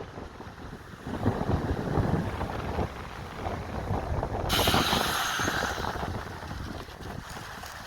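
Wind buffeting the microphone over water rushing under a windsurf board. About halfway through, a sudden loud hiss sets in and eases off after a second or so.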